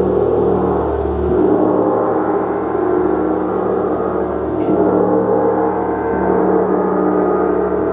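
Gong played as a continuous wash: a dense, sustained ringing of many overlapping tones that swells and ebbs gently, with no distinct separate strikes.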